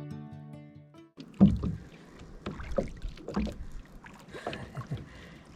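Acoustic guitar music fading out in the first second, then a kayak paddle dipping and splashing in the lake in irregular strokes, the loudest splash a little after one second in.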